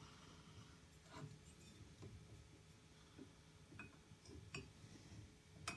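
Near silence with a faint hum and a few light, sharp clicks of small metal parts being handled and nudged on a steel welding table, the loudest near the end.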